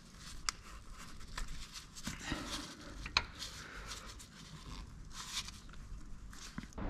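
Faint scattered clicks and scraping of tools and parts being handled during hand work on the engine, with one sharper click about three seconds in.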